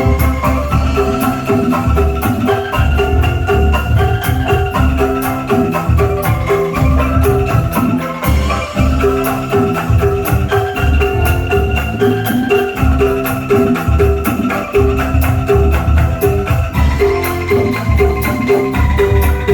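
Angklung ensemble music played loudly through a sound system: quick repeating bamboo mallet-percussion notes over a steady, heavy bass beat.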